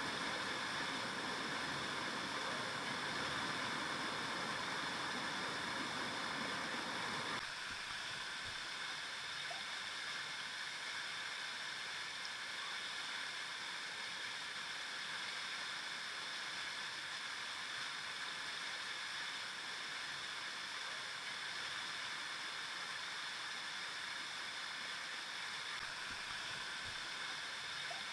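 River water flowing steadily, a continuous rushing. About seven seconds in the sound changes abruptly, becoming a little quieter and losing its deeper rumble.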